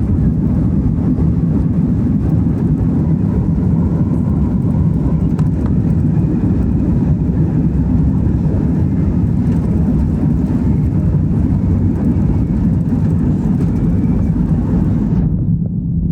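Airliner's engines heard from inside the cabin: a loud, steady low noise with no pitch changes. About a second before the end the higher part of the sound suddenly falls away.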